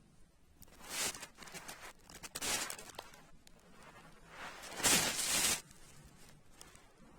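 Several short bursts of rustling and handling noise, about one second in, around two and a half seconds, and the loudest about five seconds in.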